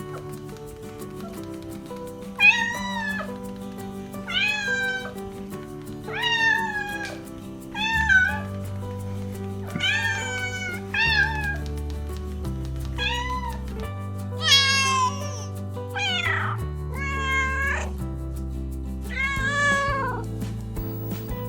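A cat meowing again and again, about eleven separate meows each falling in pitch, over background music with sustained chords.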